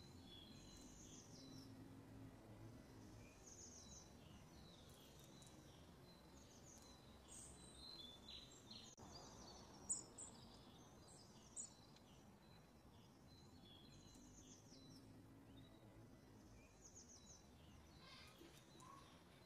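Faint birds chirping in short repeated calls over a low background hiss, with a couple of sharp clicks about halfway through.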